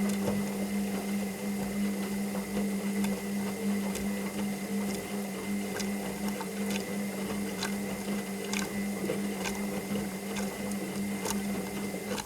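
Washing machine running: a steady motor hum with a thin high whine above it and scattered light clicks and knocks.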